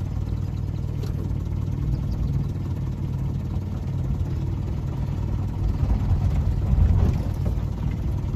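Austin Cambridge's four-cylinder engine running at low speed, a steady low rumble heard from inside the cabin.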